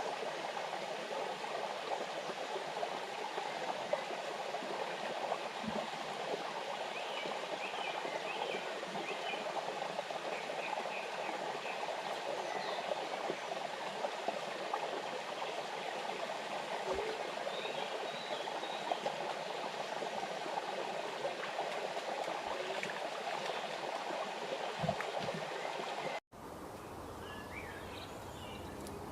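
Running water with short bird chirps over it. About three seconds before the end it cuts suddenly to a quieter outdoor ambience with a few more chirps.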